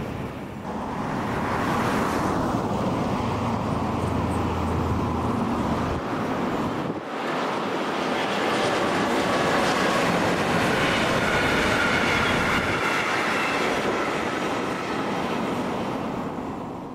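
Train running: a steady rumbling noise, with a brief dip about seven seconds in and faint high whining tones for a few seconds after it.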